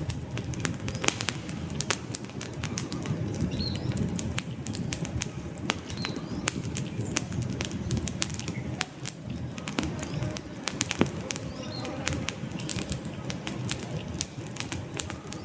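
Wood fire crackling: frequent irregular sharp pops and snaps over a steady low rumble of the burning logs.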